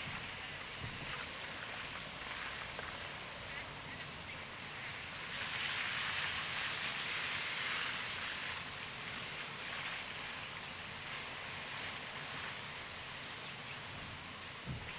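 Heavy rain and wet-road tyre noise during a drive, heard as a steady hiss that swells louder for a couple of seconds about halfway through.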